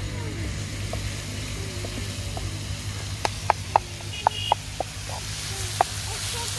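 Food sizzling in hot oil in a pan, with a run of sharp clicks between about three and five seconds in.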